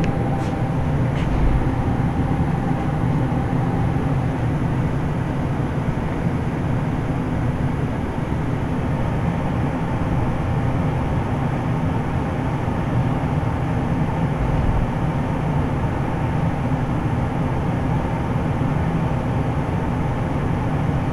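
Carrier Infinity GreenSpeed 25VNA inverter heat pump outdoor unit running with a steady low hum and whir as it changes over to cool mode, before it fully kicks in. Two faint clicks near the start.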